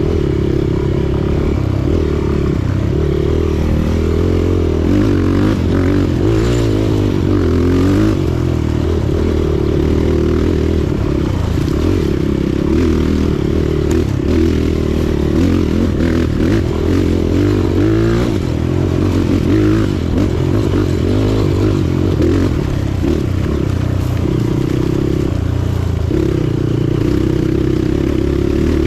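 Motorcycle engine running steadily while the bike is ridden, its pitch shifting a little with the throttle.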